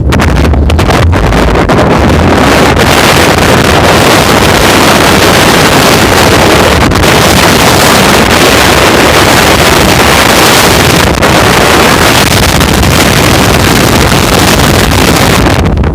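Loud, steady wind roar buffeting the microphone on a moving off-road vehicle, with vehicle noise underneath. It drops away suddenly just before the end.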